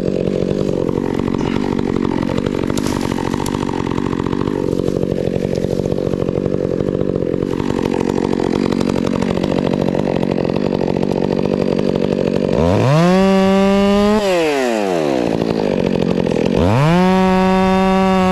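Stihl MS 400 C two-stroke chainsaw cutting through wood under load. About twelve seconds in it is run up to full revs twice, each time held for a second or two and then let fall back.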